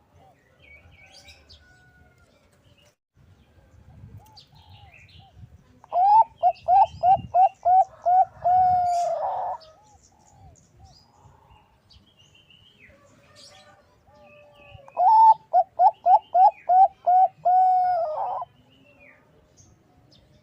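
Zebra dove (Bangkok-type perkutut) cooing twice, each call a quick run of about eight short rising notes that ends in a longer held note. Faint high chirping sounds in between.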